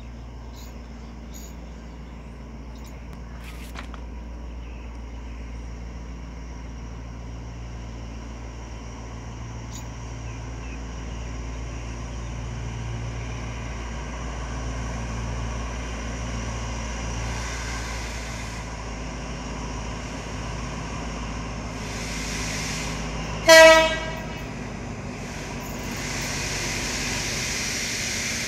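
Steady low hum of a standing diesel train, then one short, loud diesel locomotive horn blast about three-quarters of the way through. Near the end comes the rising noise of an Alsthom diesel-electric locomotive approaching on the next track.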